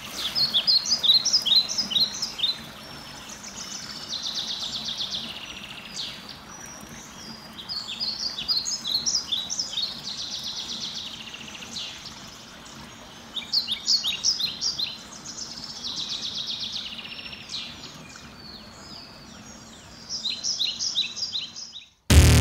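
Songbirds singing: repeated phrases of quick, high chirps and trills every few seconds, over faint outdoor background. Loud beat-driven music cuts in at the very end.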